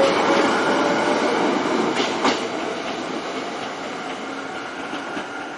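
Chichibu Railway train running along the track, its wheels giving a double clack over a rail joint about two seconds in, the noise gradually fading.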